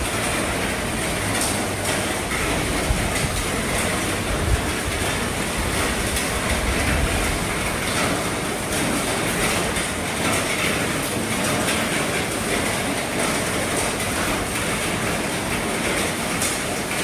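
Heavy rain drumming steadily on an RV's roof, with scattered individual drop hits over a dense, even wash of rainfall and a low rumble.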